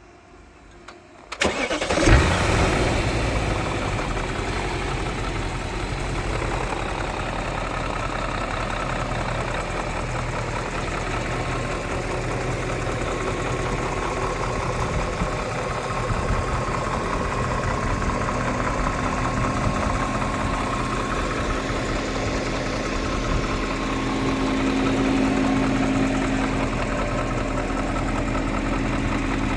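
BMW E39 M5's 4.9-litre S62 V8 starting about a second and a half in, flaring briefly, then settling into a steady idle.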